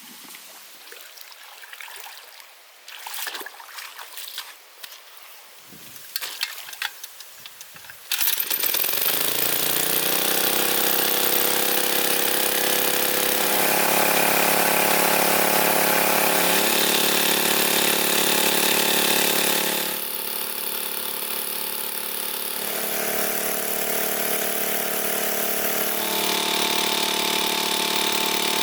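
A few scattered knocks, then about eight seconds in an engine starts abruptly, its pitch rising as it picks up speed, and it runs steadily, changing pitch twice later on.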